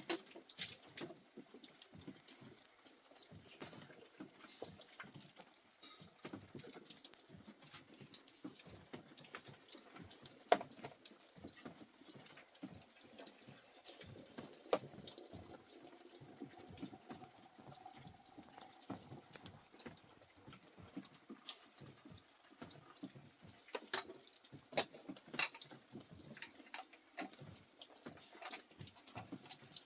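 Irregular light tapping and patter, with a few louder knocks about a third of the way in and again in the last third.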